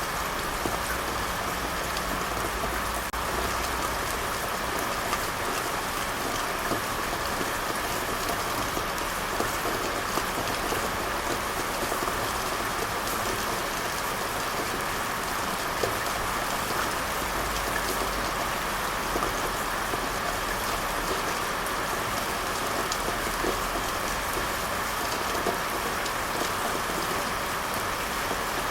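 Steady rainfall, an even hiss of drops with fine pattering throughout.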